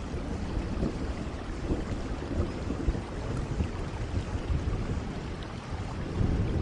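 Steady rain with a low, rolling rumble of thunder.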